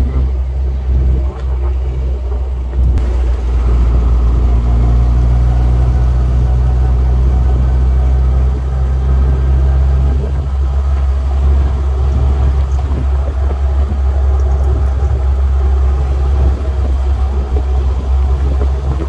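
An Austin Mini Moke's A-series four-cylinder engine running as the open car drives along, heard from the seat over a steady low rumble of wind and road noise.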